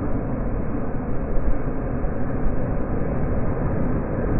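Italo high-speed train passing close by in slow motion: a steady, deep rumble of wheels on rails and rushing air.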